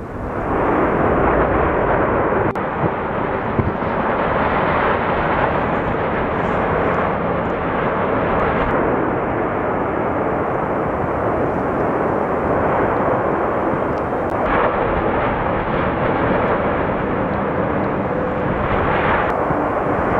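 A loud, steady rushing roar with no pitch to it, shifting slightly in tone a few times.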